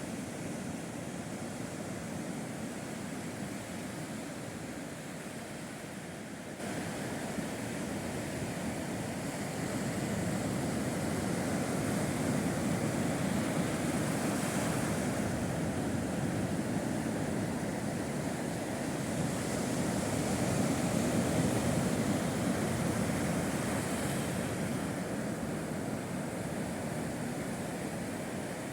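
Sea waves breaking and washing on the shore. The surf swells and hisses up twice, once about midway and again a few seconds later.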